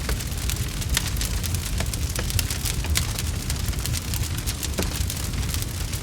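Wood fire crackling, with sharp pops and snaps scattered over a steady low rumble.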